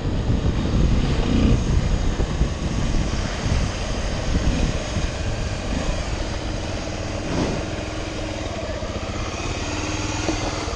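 Motorcycle on the move: wind rushing over the microphone, with the engine running steadily underneath.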